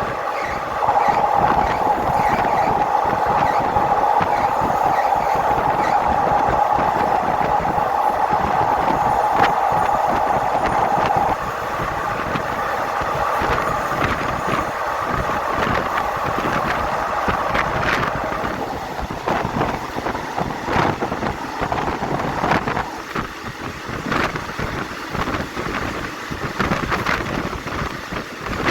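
Passenger train running along the track, a continuous rumble with frequent knocks. A steady high tone is held for about the first eleven seconds and cuts off suddenly.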